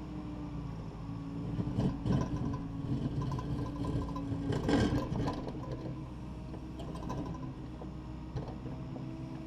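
Takeuchi TB260 excavator's diesel engine running steadily, with louder clattering and scraping about two seconds in and again near five seconds as the bucket works the broken concrete.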